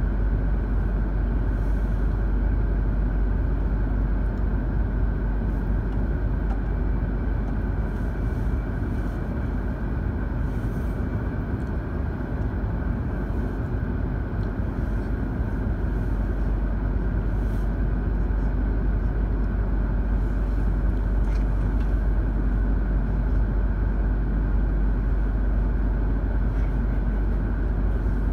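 Steady cabin noise inside a stationary E2 series Shinkansen car: a constant low rumble and hum from the train's onboard equipment while it stands still.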